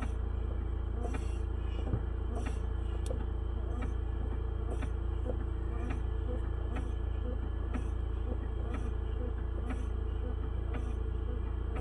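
Car engine idling, heard from inside the cabin as a steady low hum, with a short sharp click repeating evenly about every two-thirds of a second.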